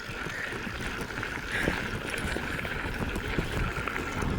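Steady rushing noise of wind buffeting the phone's microphone while moving, with a continuous low rumble underneath.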